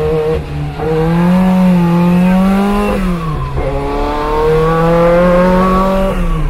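Renault 5 Maxi Turbo's mid-mounted turbocharged four-cylinder engine pulling hard, heard from inside the cabin. Its pitch climbs, drops sharply about three seconds in, then climbs again and drops near the end.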